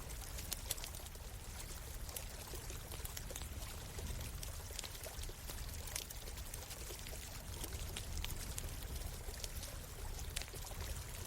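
Small stream running steadily, with scattered sharp crackles and pops from a wood campfire.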